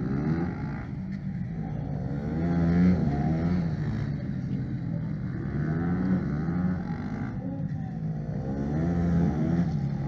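A sport motorcycle engine being revved hard during stunt riding, its pitch sweeping up and falling back again several times.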